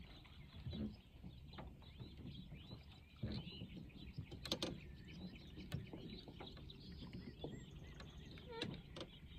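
Faint dawn chorus of small birds chirping and twittering over and over, with a few sharp clicks in between.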